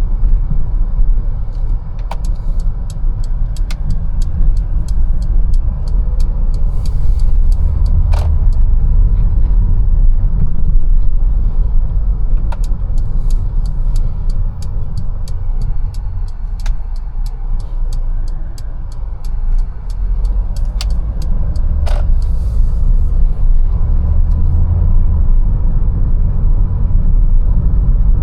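Mercedes-Benz A180 driving, a steady low rumble of engine and road noise. Over it come two runs of evenly spaced sharp clicks, about two to three a second, one near the start and a longer one in the middle.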